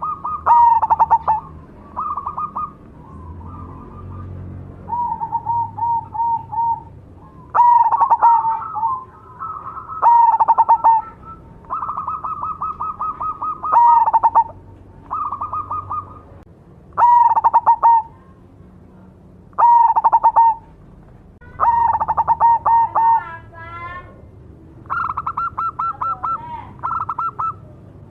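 Zebra dove (perkutut, black cemani strain) cooing: phrases of quick, rapidly repeated notes, one every two to three seconds.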